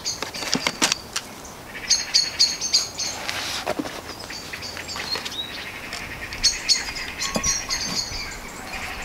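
A songbird sings runs of quick, high repeated chirps, about two seconds in and again near seven seconds. Under it come scattered clinks and knocks as a glass jug, a sieve and a plastic bottle are handled, and in the second half liquid trickles as it is poured into the bottle.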